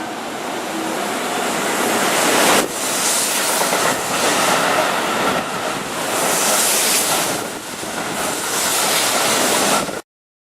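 Keihan electric train running past, a loud steady rush of wheel and motor noise that swells and dips, cutting off suddenly near the end.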